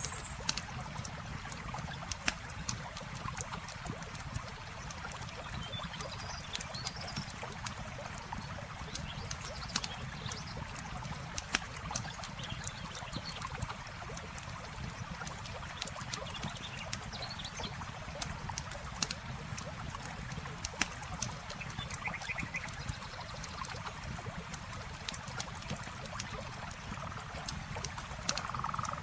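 Campfire crackling with frequent irregular pops and snaps over a steady trickle of flowing river water. A few faint, short bird calls sound now and then.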